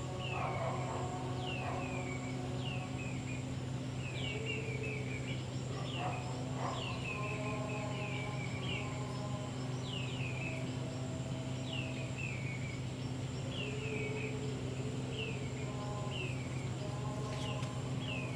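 A bird calling over and over, a short falling chirp about once a second, over a steady low hum.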